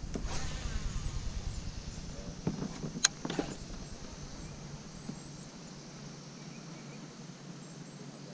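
Quiet lakeside ambience with a faint insect buzz, a low rumble that fades away over the first few seconds, and one sharp click about three seconds in.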